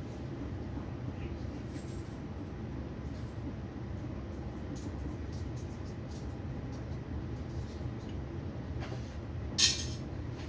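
Steady low rumble inside the carriage of a Railjet passenger train running at speed, with faint scattered ticks. A single brief, sharp hissing click comes near the end.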